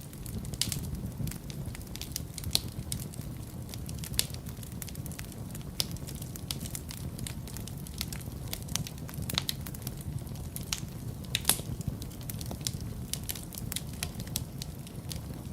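Wood fire in a fireplace burning steadily, with a low rumble of flames under frequent irregular crackles and sharp pops.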